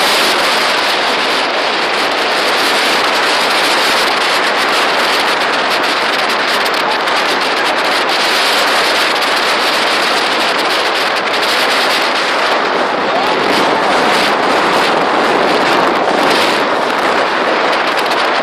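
Steady rushing noise of wind and water on a boat under way, with wind buffeting the microphone.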